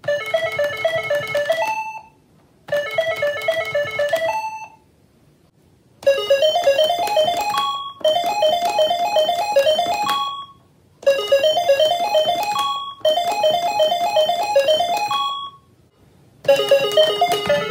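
Musical calculators beeping out a railway station melody in bright, buzzy electronic tones, played as short repeated phrases of a couple of seconds with brief pauses between them.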